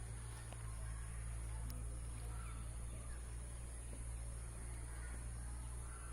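Faint, scattered bird calls over a steady low hum and a thin, steady high-pitched hiss.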